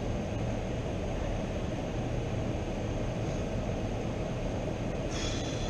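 Steady low rumble of running machinery, with a brief hiss near the end.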